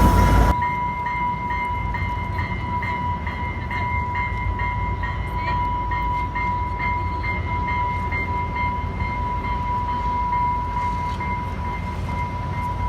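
Train near the tracks: a steady low rumble with a steady high-pitched tone over it and a faint pulsing about twice a second. A louder rush cuts off about half a second in.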